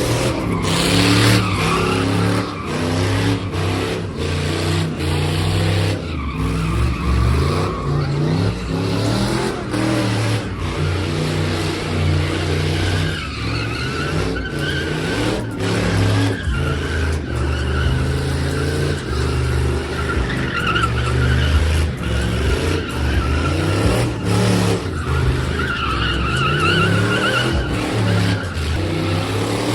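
Truck doing a burnout: its engine revving hard and changing pitch, with tires squealing in a wavering, high whine that is strongest in the second half.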